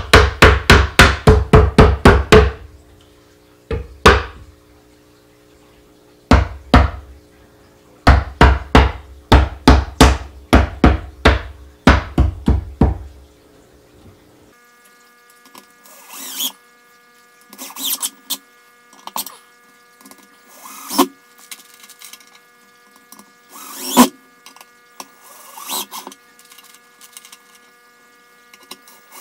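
A hammer beating a wooden beehive box's tight tongue-and-groove corner joints together, in quick runs of about four or five blows a second. About halfway through, the blows give way to softer scattered knocks of wood being handled.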